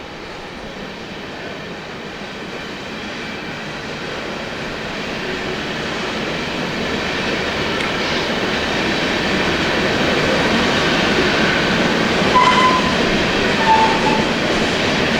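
Loaded coal train rolling past upgrade: steel wheels on rail make a steady rumble that grows louder, with a few short wheel squeals near the end.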